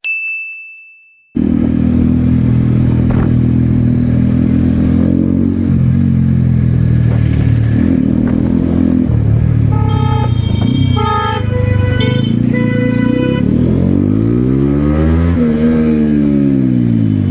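A short ringing chime fades out at the start, then a Kawasaki ZX-10R's inline-four engine runs steadily in traffic. Vehicle horns honk in a series of short beeps about ten seconds in, and near the end the engine revs up and back down.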